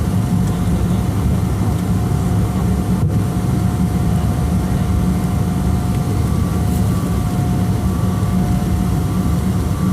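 Steady cabin noise inside a Boeing 777-200: a loud, even low rumble of the jet engines and airflow, with a faint steady whine above it.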